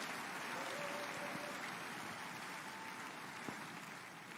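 Congregation applauding, swelling early and then slowly fading.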